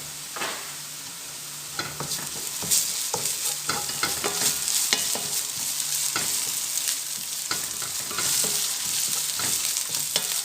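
Sautéed onions and ginger-garlic paste sizzling in hot oil in a pan, stirred with a utensil that scrapes and clicks against the pan in irregular strokes.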